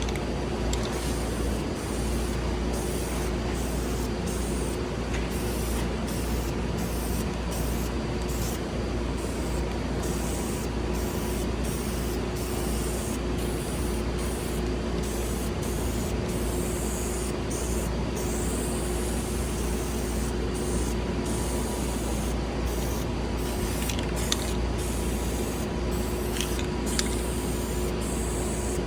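Spray paint hissing in many short passes, cutting on and off about once or twice a second, as a set of wheels is painted. A steady hum runs underneath.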